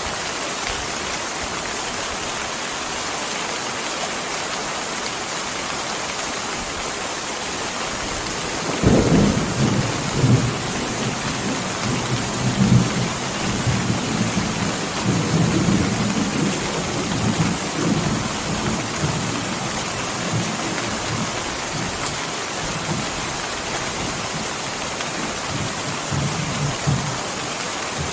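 Steady rain, with a roll of thunder that breaks in suddenly about nine seconds in, rumbles in waves for about ten seconds and dies away; a fainter rumble comes near the end.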